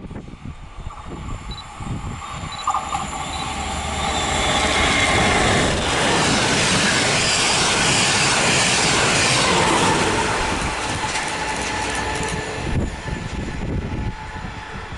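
Train of passenger coaches hauled by E402B electric locomotives passing by. The noise builds over a few seconds, stays at its loudest for about five seconds, then fades.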